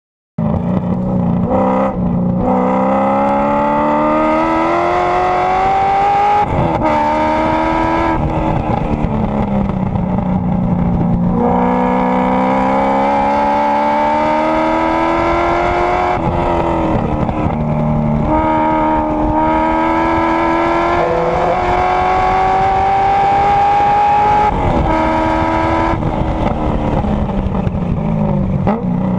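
Porsche 928 S4's V8 engine at racing speed, heard from an onboard camera at the rear of the car: the engine note climbs steadily through each gear and drops suddenly at each upshift, several times over, with a few slower falls under braking and downshifting.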